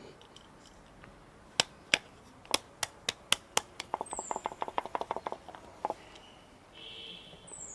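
Kitchen utensils tapping against a container while ground masala powder is added to chicken: about eight sharp taps, then a quicker run of fainter clicks. A brief high bird chirp sounds twice, about four seconds in and near the end.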